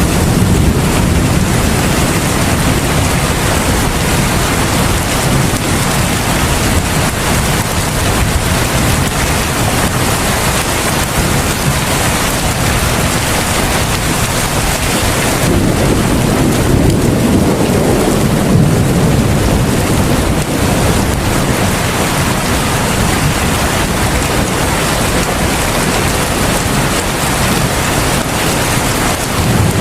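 Heavy rain falling steadily in a dense, even hiss, with a deeper rumble swelling briefly a little past the middle.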